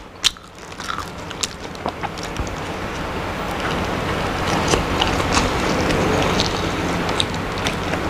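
A person chewing and biting food, with wet mouth clicks and smacks coming irregularly over a steady background noise.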